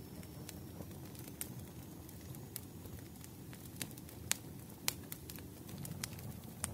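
Wood fire crackling in a fireplace: irregular sharp pops and snaps, the loudest two about four and five seconds in, over a steady low rumble of the burning fire.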